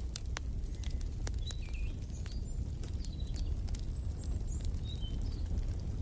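Fireplace wood fire crackling over a steady low rumble, with scattered sharp pops. Short high bird chirps come in several times through the middle.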